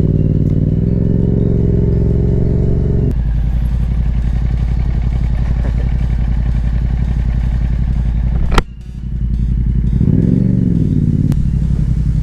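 Yamaha MT-07's parallel-twin engine running under way, its pitch steady for a while, then rising and falling with the throttle about ten seconds in. A sharp click about eight and a half seconds in.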